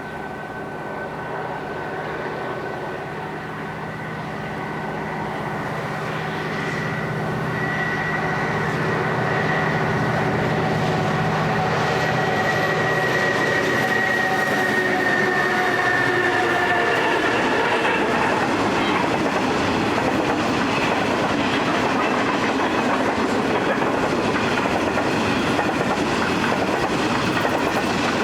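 Diesel locomotives of a grain train approaching and passing, their engines running with a steady drone that grows louder and drops slightly in pitch as they go by. After that, the train's empty grain hopper wagons roll past with a clickety-clack of wheels on rail joints.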